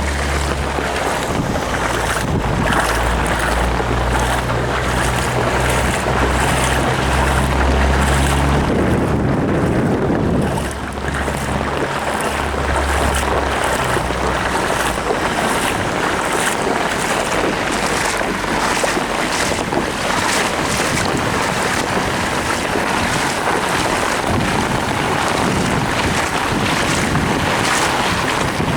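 Car driving through a flooded road in torrential rain: a dense, steady rush of water spraying up from the tyres and rain pounding on the car. A low engine hum underneath fades out partway through.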